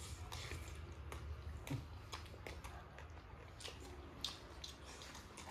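Someone chewing chicken close to the microphone: scattered small mouth clicks and smacks, faint, over a low steady hum.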